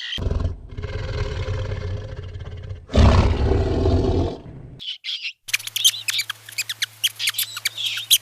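Animal calls: a long, rough, low call, then a louder one about three seconds in, followed after a short gap by rapid high chirps over a steady low hum.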